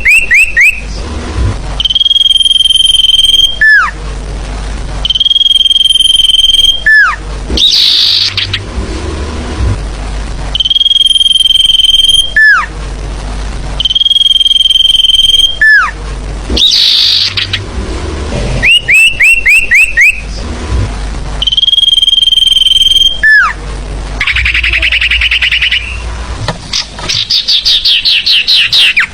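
Forest-bird lure recording (sirtu call) played loud: a long steady high whistle that ends in a sharp downward slur, repeated about every three to four seconds. Between the whistles come quick runs of falling whistled notes and rapid buzzy chattering trills.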